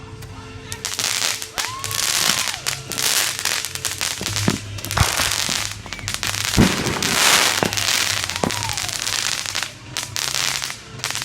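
Fireworks going off in a dense, continuous run of bangs and crackling, with a couple of whistles that rise and fall in pitch.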